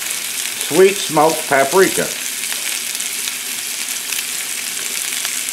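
Sliced red potatoes frying in oil on a Blackstone flat-top griddle, a steady sizzle.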